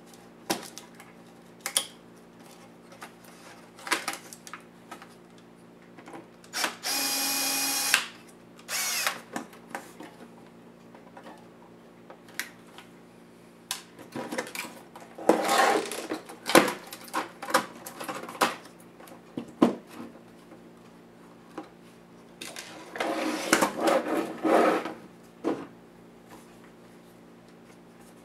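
A small power screwdriver whirs briefly about seven seconds in and again a moment later, amid scattered clicks and rattles of screws and plastic laptop parts being handled, with two busier spells of clatter in the second half.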